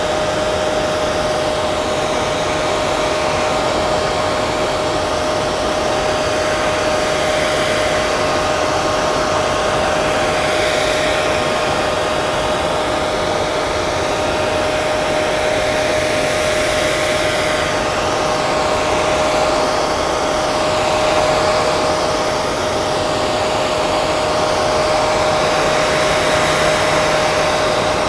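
Electric hair dryer running steadily: a constant rush of blown air with a steady motor whine.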